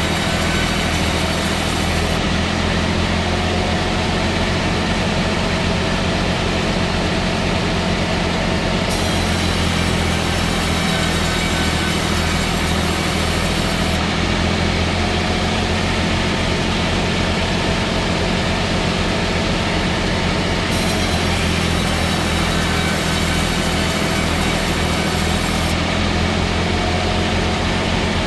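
A heavy engine-driven machine running steadily with a low drone and no change in speed.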